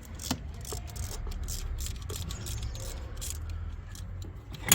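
Small metallic clicks and knocks from hand tools as the valve cover bolts are tightened, a few a second and irregular, with one sharp loud click near the end.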